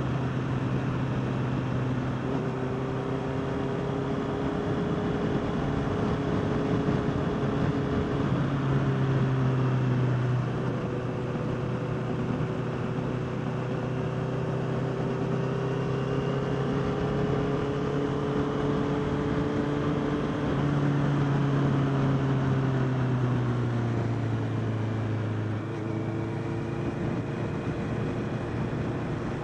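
Honda CBR650R's inline-four engine running at road speed, with rushing road and wind noise. The engine note shifts a couple of times, then falls as the bike slows near the end.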